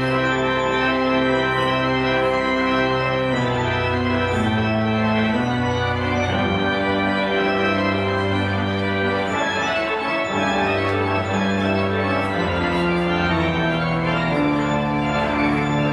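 Church pipe organ, freshly rebuilt, playing slow sustained chords that change every second or so, with a moving bass line.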